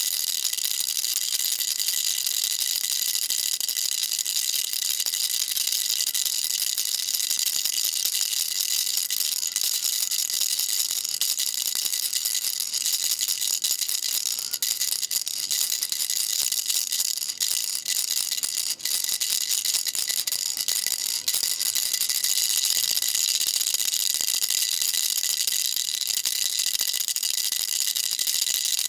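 Baby rattle shaken without pause, a dense steady rattle sitting high in pitch, with a few brief dips about halfway through.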